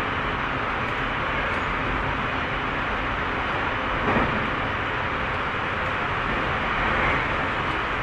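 Tobu 30000 series electric train running between stations, a steady rumble of wheels on rail heard from inside the car, with a brief louder knock about four seconds in.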